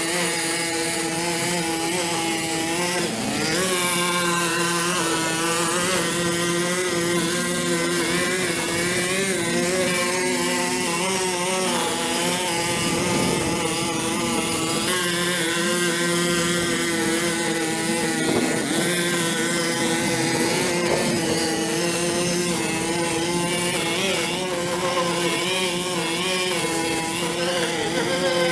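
A small engine running steadily at a fairly constant speed, its pitch wavering and dipping slightly now and then.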